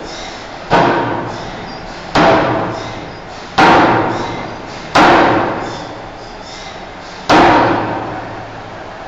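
Forging hammer striking a steel bar, five heavy blows about one and a half seconds apart, each ringing away over about a second, with a longer gap before the last blow.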